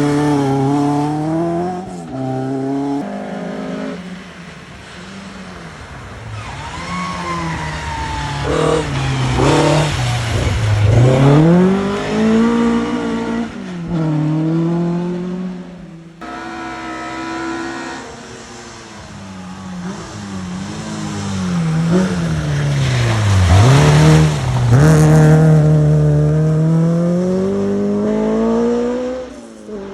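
Rally cars on a forest special stage, engines revving hard and the pitch climbing and dropping repeatedly through gear changes as each car approaches and passes. About halfway through the sound cuts suddenly to a second car doing the same.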